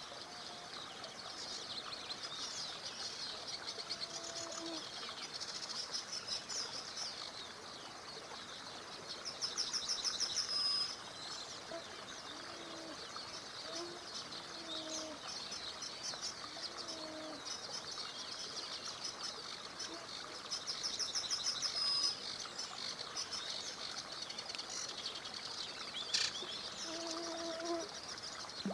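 Several songbirds singing together in a steady chorus of high chirps, with a loud, fast trill twice, about ten seconds in and again past twenty seconds. Short low calls sound at intervals underneath.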